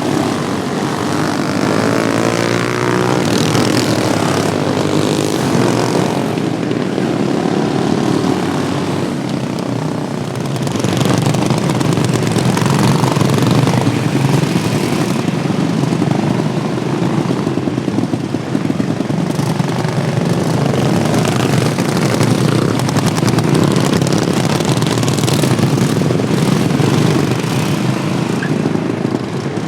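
Several modified Wheel Horse racing lawnmower engines running hard around the track in a steady, loud drone, with one passing close by a few seconds in.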